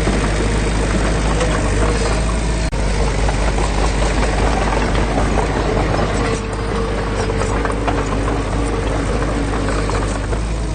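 Diesel engine of heavy construction machinery running steadily, with a momentary break about three seconds in and a slight drop in level a little past halfway.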